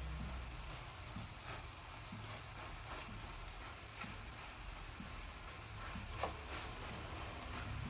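Eggs frying in a pan: faint, scattered ticks of spitting oil over a low hum, with one sharper click about six seconds in.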